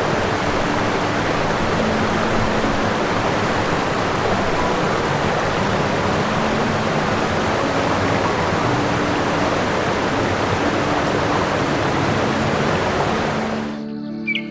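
Steady rushing noise with faint held tones beneath it, cutting off about a second before the end.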